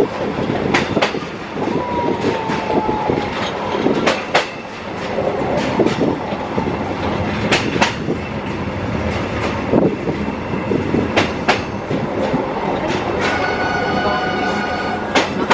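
A tourist train rolling slowly along old, lightly maintained track, with a steady running rumble and irregular sharp clicks from the wheels over rail joints. Near the end a high squeal rings for about two seconds, typical of wheel flanges on a curve.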